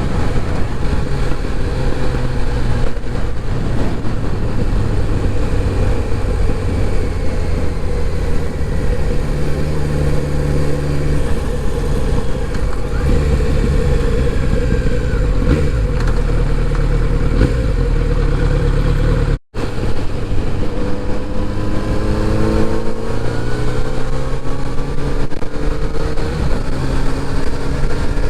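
Kawasaki Z900RS inline-four engine running under way with road and wind noise; in the last third the pitch rises several times as it accelerates. The sound cuts out for a split second about two-thirds through.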